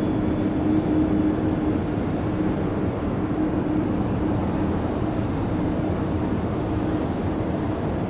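Steady jet aircraft engine noise with a faint, even low hum underneath.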